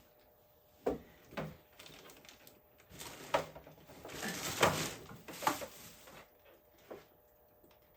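Light knocks and clicks of hands handling equipment, with a brief rushing noise a little past the middle.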